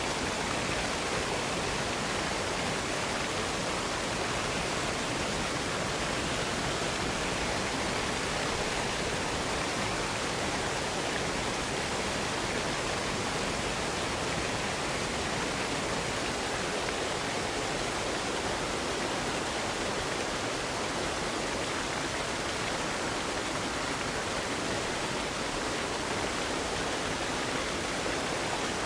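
Waterfall running: a steady, unchanging rush of falling water.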